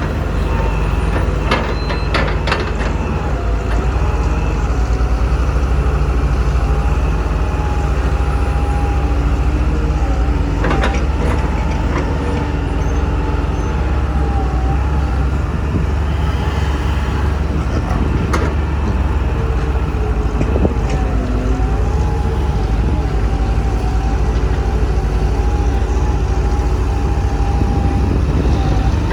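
Heavy diesel engines of excavators and dump trucks running steadily with a deep rumble, under a wavering mid-pitched whine. Sharp knocks come about two seconds in, again around eleven seconds, and near eighteen seconds.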